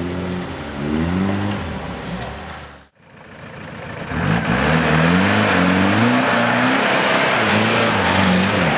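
Off-road 4x4 engine revving up and down, its pitch rising and falling. It cuts off abruptly about three seconds in. Another engine then revs hard under a loud, steady rush of noise.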